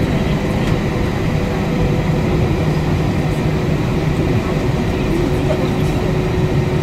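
Cabin noise inside an Airbus A320-232 airliner: a steady, loud low rumble with a few steady hums running through it.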